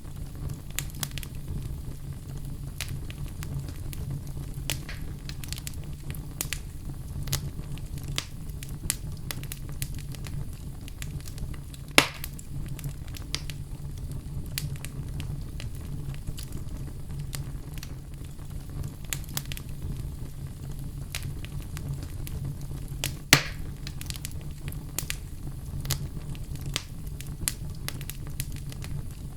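Wood fire crackling in a fireplace: a steady low rumble of flames with frequent small irregular snaps, and two louder pops, one near the middle and one about three quarters of the way through.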